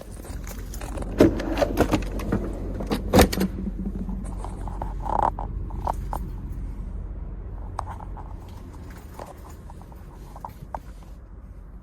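A run of sharp clicks and knocks, thickest in the first four seconds and sparser after, over a low steady hum.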